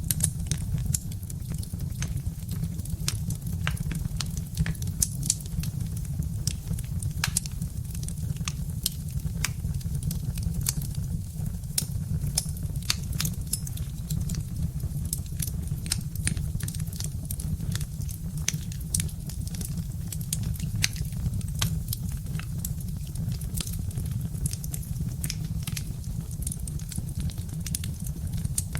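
Birch-wood fire crackling: dense, irregular snaps and pops over a steady low rumble.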